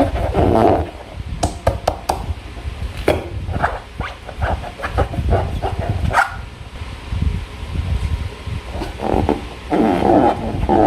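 Hands working slime and rubber balloons: irregular wet squishing and small clicks, with denser rubbing noise at the start and again near the end.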